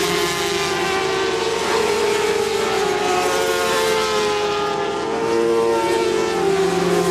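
Several 400 cc racing motorcycles running hard together, their engine notes overlapping and drifting up and down in pitch.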